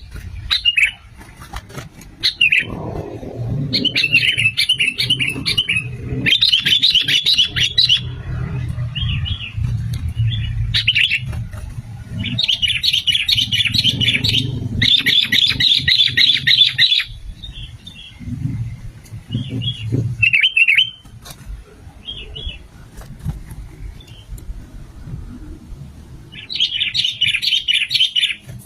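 Sooty-headed bulbul giving bouts of fast, chattering calls, several seconds long, broken by short pauses and single notes. A low rumble runs under much of it.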